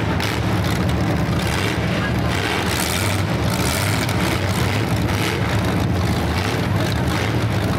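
Demolition derby car engines running loud and steady through open exhaust pipes that stick up out of the hood.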